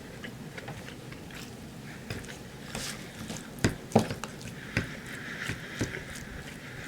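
A man chewing a mouthful of chicken fajita rice bowl with wet mouth sounds, and several sharp clicks, the loudest two about halfway through.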